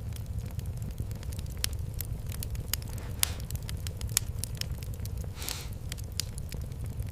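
Fireplace fire crackling: a dense run of sharp pops and snaps over a steady low rumble, with a short hiss about five and a half seconds in.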